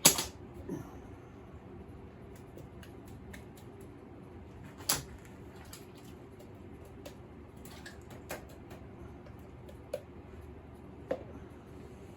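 Hands handling glue and small workpieces at a bench: scattered clicks and light knocks, with a sharp knock right at the start and another about five seconds in, over a low steady room hum.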